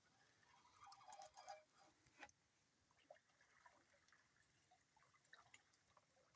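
Near silence, with a few faint scattered clicks and a brief faint higher-pitched sound about a second in.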